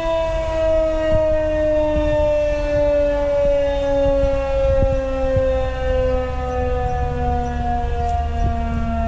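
Mechanical outdoor warning siren sounding a long tone that falls slowly and steadily in pitch, with a low rumble underneath.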